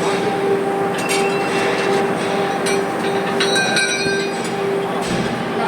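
Railway train noise: a steady hum with a held tone, broken by brief metallic ringing about a second in and again from about three and a half to four seconds.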